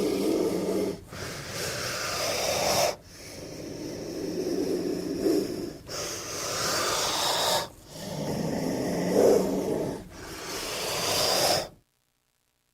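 King cobra hissing: a run of about six breathy hisses, each lasting around two seconds with short breaks between them, then a sudden stop.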